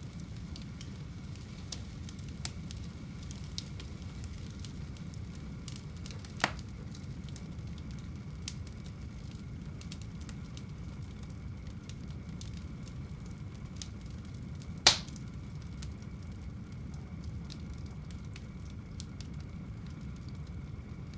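Wood fire burning in a home fireplace: a steady low rumble of the flames with scattered sharp crackles, and two louder pops, one about six seconds in and one about fifteen seconds in.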